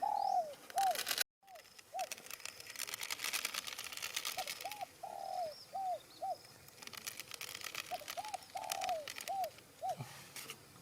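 A dove cooing in three repeated phrases, each a few short coos around one longer falling coo, over a light crackling rustle.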